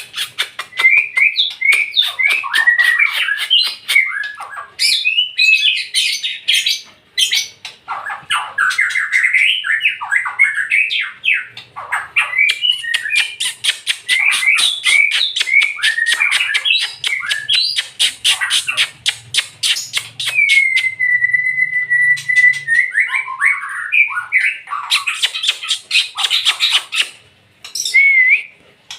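White-rumped shama singing loudly: a fast, varied run of whistles, chatters and sharp clicks, with one long level whistle about two-thirds through.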